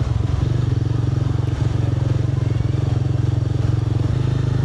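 Yamaha R7's parallel-twin engine with an SC-Project exhaust running steadily while riding, its note shifting a little near the end.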